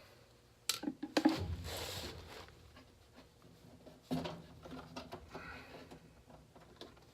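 Handling noises: a few sharp knocks and clicks about a second in and again near the middle, each followed by brief rustling and scraping, as of parts and tools being handled.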